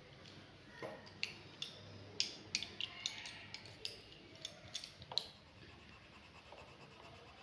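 A quick run of light, sharp clicks and taps of small hard objects being handled, about a dozen over some four seconds, the loudest about two seconds in.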